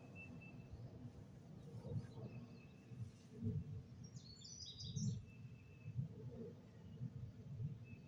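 Wild birds calling faintly: short, high, steady whistled notes repeat every couple of seconds, and a quick cluster of higher chirps comes about four seconds in, over an irregular low rumbling background.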